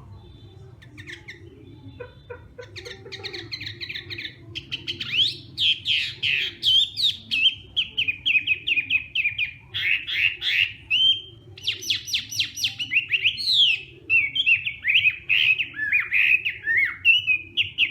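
Chinese hwamei singing: a few scattered notes, then from about three seconds in a fast, varied run of repeated whistled notes and slurred phrases.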